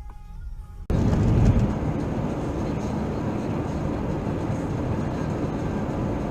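Faint music, then about a second in a sudden cut to the steady rumble of a car driving: engine and tyre noise picked up by a dash camera inside the car.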